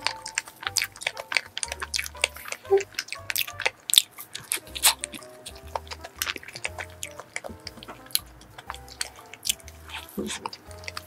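Close-miked chewing and biting of a soft blueberry cream roll cake, with many small wet mouth clicks, over background music.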